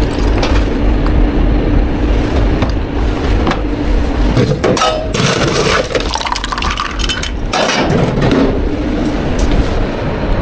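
Milk tea drink-making sounds: sharp clinks and knocks of cups and utensils, with two louder rushing, rattling stretches about halfway through and again about eight seconds in, over a steady low hum.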